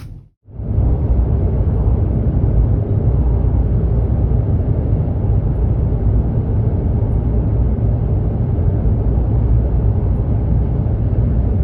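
Steady low rumble of road and engine noise inside a moving car, starting suddenly just after a brief cut to silence.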